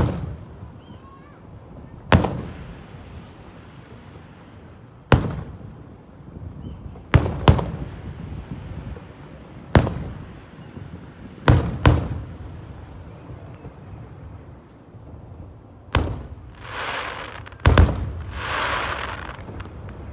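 Aerial fireworks shells bursting: about eleven sharp booms at irregular gaps of a fraction of a second to a few seconds, each with a short rolling echo. Near the end a hissing crackle fills the gaps between bursts.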